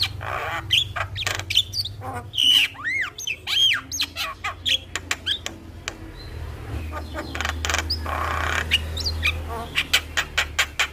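Javan myna (jalak kebo) singing a varied song: whistled notes that rise and fall, harsh hissing squawks, and a quick run of sharp clicking notes near the end.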